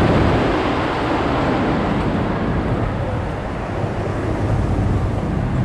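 Amusement-park ride train running along its track: a steady rumble from the cars and wheels.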